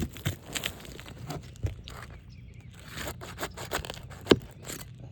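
Scraping and crackling of brittle asphalt shingles as a tool is worked under them to pull roofing nails, a run of short clicks and scrapes with one sharp knock a little over four seconds in.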